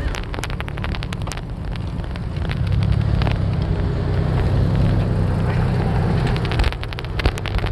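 Wind buffeting the microphone in a heavy low rumble, with many small clicks and rattles. It swells louder from a few seconds in and drops back near the end.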